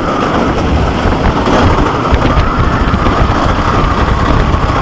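GhostRider wooden roller coaster train running fast along its track, heard from a rider's seat: a loud, steady rattling rumble with a held high tone running through it.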